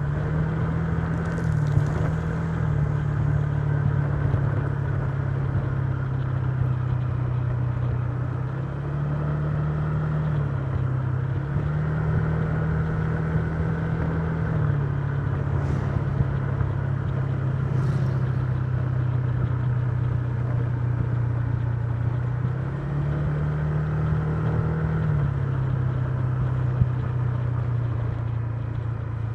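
Honda Giorno 125 scooter's single-cylinder four-stroke engine running on the road, its pitch rising and falling several times with the throttle, over a steady rush of wind and road noise.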